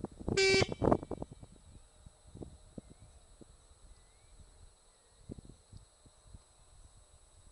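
A single short honk, steady in pitch and lasting about a third of a second, about half a second in. It is followed by faint bird chirps and scattered low thumps.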